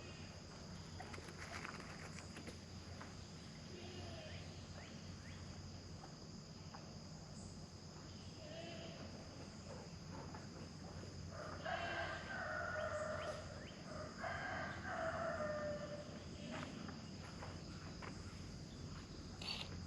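A rooster crowing twice, about two-thirds of the way through, each crow a drawn-out call that drops in pitch at the end, with shorter calls from the fowl before it. A steady high insect buzz runs underneath.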